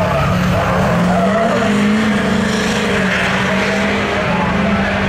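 Diesel truck engine running hard at high revs, its pitch stepping up about a second and a half in and then holding steady.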